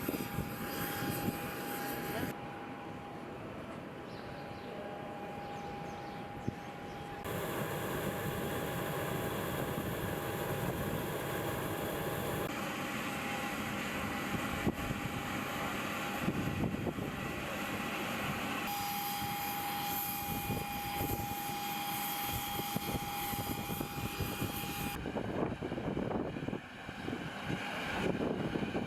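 Aircraft engines running with a steady whine over a noisy hum, in several shots cut together so that the sound changes abruptly every few seconds.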